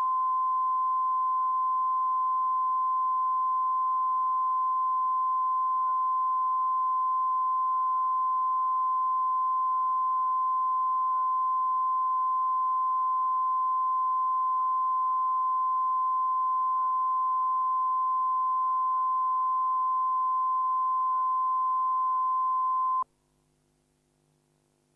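Steady television test tone, one unwavering beep-like pitch, as a station puts out once it has gone off the air; it cuts off suddenly about two seconds before the end, leaving near silence.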